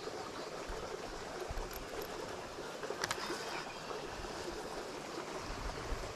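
Water rushing steadily over a small creek spillway, with one brief click about three seconds in.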